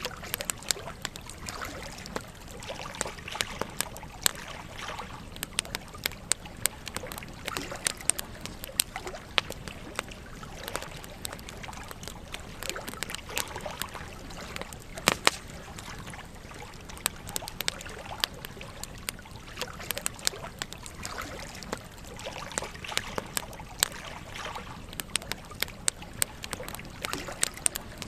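Campfire burning: wood crackling with frequent irregular sharp snaps over a steady hiss, one snap louder than the rest about fifteen seconds in.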